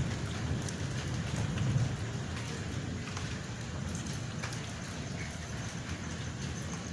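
Steady rain falling during a thunderstorm, an even hiss with scattered drops ticking on a surface. A low rumble swells and fades about a second or two in.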